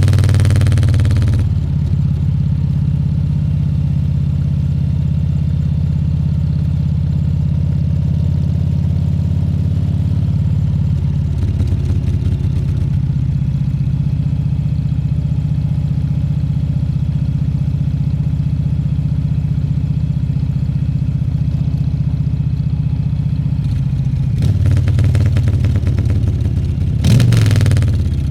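Harley-Davidson Fat Bob 114's Milwaukee-Eight 114 V-twin engine running. It is louder with a rush of wind for the first second or so, then settles to a steady low rumble, and near the end it swells in a short rev that falls away again.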